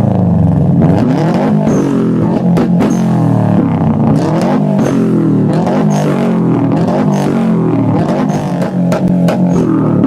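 Turbocharged Subaru flat-four engine revving, its pitch repeatedly rising and falling back, with sharp exhaust pops and crackles throughout.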